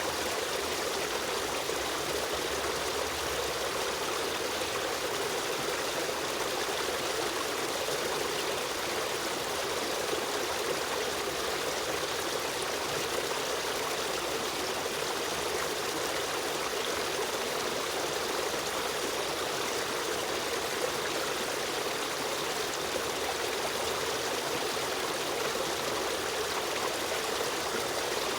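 Steady running water of a stream, a continuous rushing and trickling flow.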